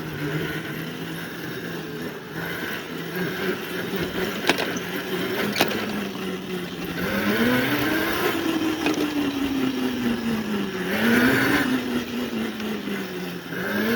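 A small engine running at a steady speed, then rising and falling in pitch several times over the second half as it is throttled up and eased off. Two sharp clicks come about halfway through.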